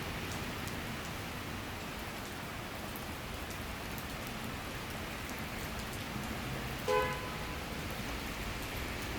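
Steady summer rain shower falling on surfaces, with scattered individual drop ticks. About seven seconds in there is a single short pitched beep, like a brief horn toot.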